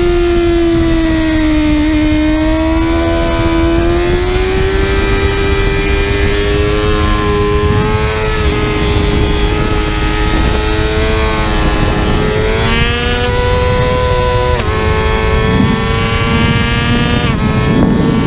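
Kawasaki ZX-6R's inline-four engine at high revs on a racetrack. The pitch sags a little, then climbs slowly through a long pull. In the last third it rises quickly and drops sharply about three times as the bike shifts up under acceleration. A heavy rush of wind runs underneath.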